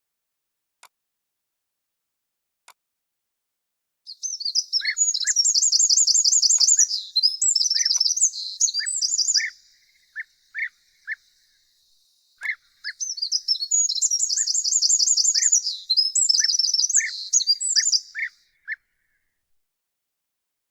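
Songbirds singing: two long, fast warbling song phrases of about five seconds each, separated by a pause, with short, lower chirps repeated between and under them. Two faint clicks come before the song starts.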